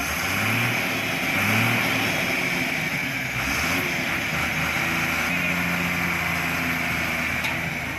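Recovery truck's engine working under load, revving up twice in quick succession and then holding a steady, higher speed while pulling a stuck vehicle through soft ground.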